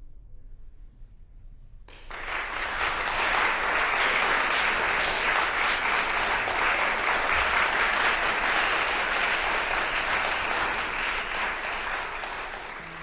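A crowd applauding, starting suddenly about two seconds in and holding steady with dense clapping, tapering slightly near the end.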